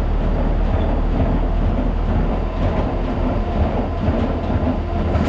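Wheat pouring out of a hopper-bottom grain trailer into an elevator receiving pit: a steady rumbling rush, with machinery humming underneath.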